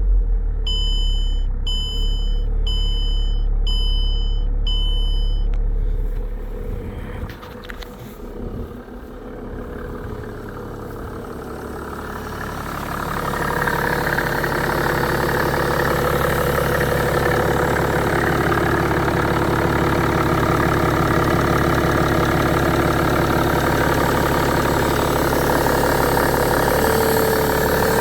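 Mercedes-Benz E320 CDI diesel engine idling just after a cold start in freezing weather, with a diesel clatter. A dashboard warning chime beeps about six times in the first few seconds, and the sound grows louder about twelve seconds in.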